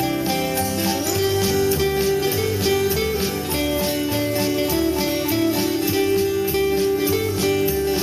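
Guitar solo in a country song: a lead guitar melody that slides between notes over a strummed rhythm and bass.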